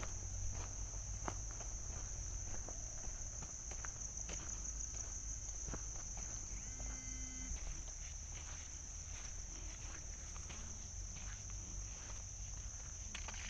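A steady, high-pitched insect chorus drones throughout, over irregular footsteps on the forest floor. A short pitched animal call sounds once, about seven seconds in.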